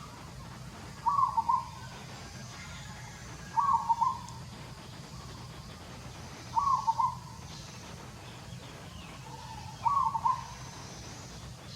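A bird calling outdoors: one short call, repeated four times at roughly three-second intervals.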